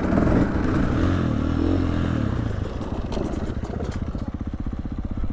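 Dirt bike engine backing off, its revs falling over the first two or three seconds, then running at low revs.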